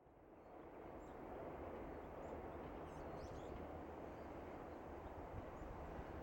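Low, steady rumble of an electric limited express train still far off down the line and approaching, with a few short bird chirps on top. The sound fades in over the first second.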